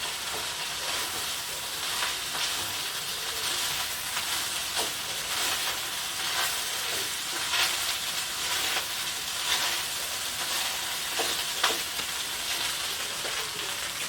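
Food sizzling in a hot pan: a steady frying hiss with scattered small crackles.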